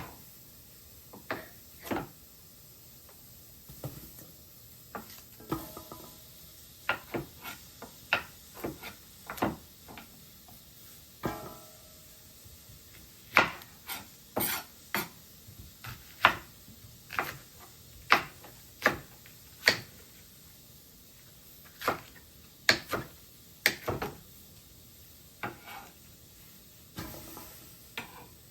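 Kitchen dishes and utensils being handled: irregular clinks and knocks, a few of which ring briefly.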